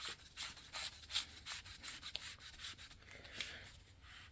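Repeated metal-on-metal scraping and rubbing, about three short strokes a second, as a greased part is worked back into place on a snow plow; it fades near the end.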